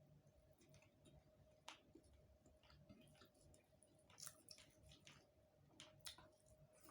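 Faint eating sounds: scattered, irregular wet clicks of chewing and mouth noise, over a faint steady hum.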